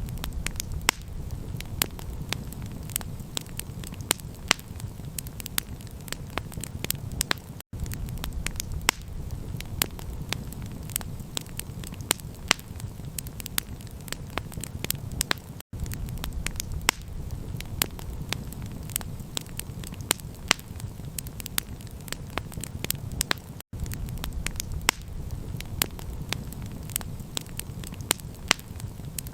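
Wood campfire crackling: sharp pops and snaps, several a second, over a steady low rumble. The sound cuts out briefly three times, about every eight seconds.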